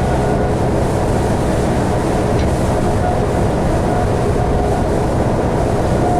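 Cabin noise aboard a 2012 New Flyer D60LFR articulated diesel bus under way: steady engine and road noise, with a faint high whine that comes and goes.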